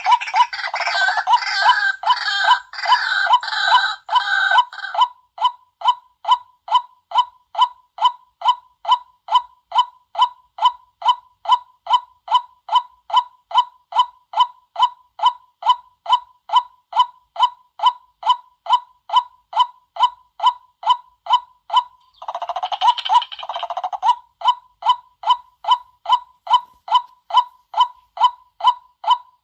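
White-breasted waterhen calling: a monotonous 'kwak' note repeated about twice a second, with bursts of louder, rougher chorus calling in the first five seconds and again about 22 seconds in.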